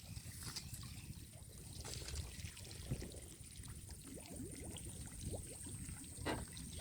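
Water sloshing and lapping around a small boat, with scattered small splashes and drips, over a faint steady high whine.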